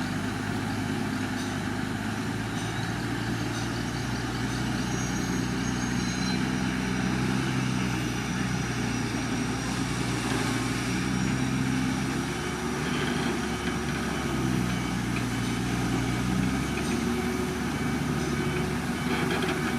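Heavy construction-machine diesel engine running steadily, its note shifting in pitch a couple of times in the second half.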